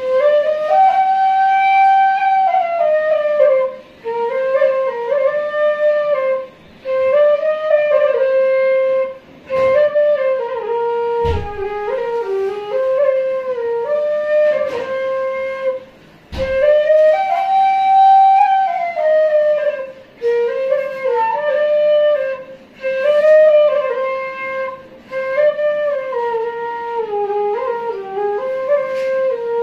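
Background music: a solo flute melody played in short phrases with brief pauses between them. A few sharp knocks cut through about ten, eleven and sixteen seconds in.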